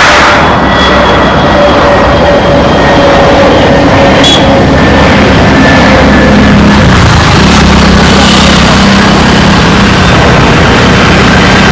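Jet airliner engines, loud and steady, with a high whine whose pitch slowly drifts down over a low hum.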